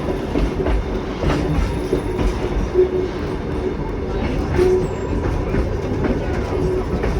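Kuranda Scenic Railway passenger train heard from on board while running: a steady rumble with wheels clicking over the rail joints, a low steady hum, and a few short wheel squeals.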